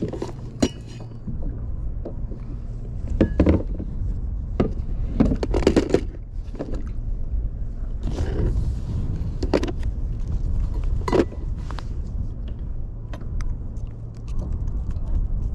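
Steady low wind rumble on the microphone, with scattered knocks, clicks and scraping rattles of fishing tackle being rummaged through on the kayak.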